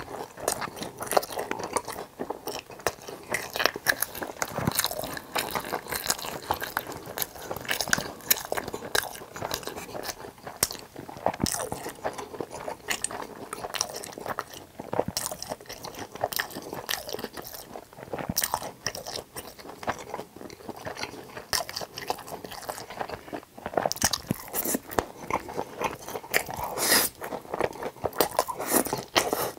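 Close-miked chewing of saucy fried pork tangsuyuk topped with melted cheese: a steady, dense run of crunches and wet mouth clicks.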